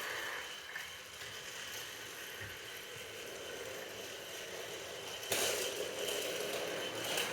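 Train running noise heard from on board. The steady ride noise grows suddenly louder about five seconds in and stays louder for about two seconds.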